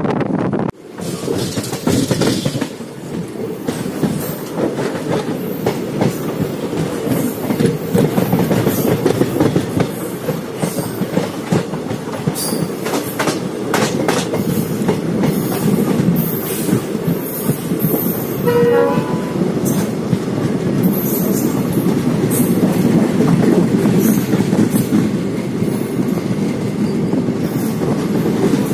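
A passenger train running along the track: a steady rumble with wheels clicking over rail joints. A brief horn sounds about two-thirds of the way through.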